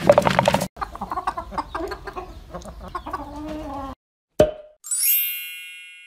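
Cartoon hens clucking for about four seconds. Then a single sharp knock, and a bright bell-like ding that rings and fades, as the wooden mallet strikes the egg.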